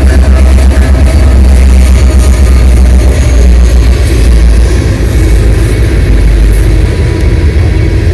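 CPKC ethanol freight train passing close by: a loud, heavy low rumble that eases slightly about halfway through.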